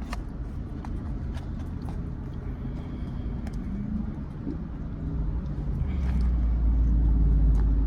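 Low steady rumble with scattered small clicks and rustles of a takeout food tray and sauce packets being handled; the rumble grows louder about six seconds in.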